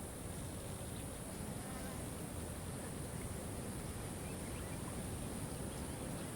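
Waterfall, a steady even rush of falling water, with a constant high-pitched hiss above it.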